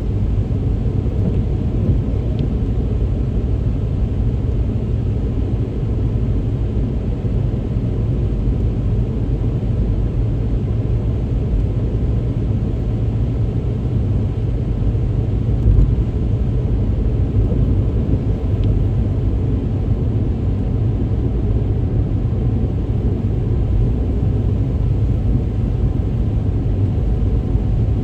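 A car driving steadily on a wet road in heavy rain: a constant low rumble of engine and tyres with a light hiss of rain and spray above it.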